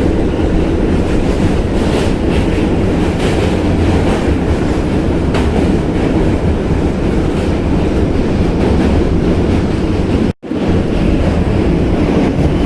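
New York City subway D train running over the Manhattan Bridge, heard from inside the car: a steady loud rumble of wheels on rail with faint clickety-clack knocks. The sound cuts out completely for a split second about ten seconds in.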